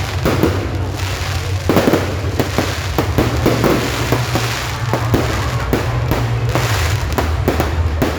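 Fireworks display: many aerial shells bursting in quick, irregular succession, several sharp bangs a second, over a steady low rumble.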